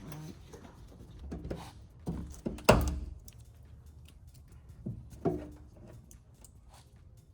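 Plastic door-panel retaining clips being worked loose with pliers and popping out: a series of sharp knocks and clicks, the loudest near the middle and two more about five seconds in.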